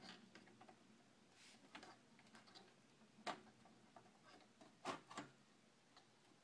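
Faint, scattered small clicks and taps of desktop computer parts being handled, with three sharper clicks in the second half.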